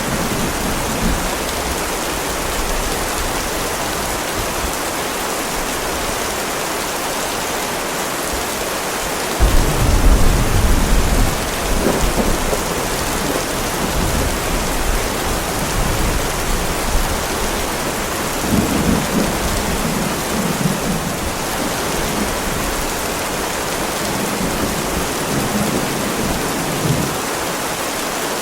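Heavy rain falling with a steady hiss, under low rolls of thunder: a loud rumble about a third of the way in that lasts a couple of seconds, then weaker rumbles later on.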